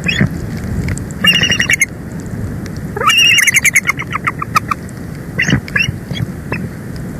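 Bald eagle calling: a brief high-pitched chitter about a second in, then a longer rapid series of piping notes falling in pitch, and a couple of last notes near the end, over a steady low rush.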